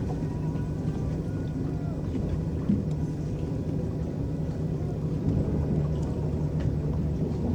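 Electric boat under way on a lake: a steady low hum from the boat with the rumble and slosh of water moving past the hull.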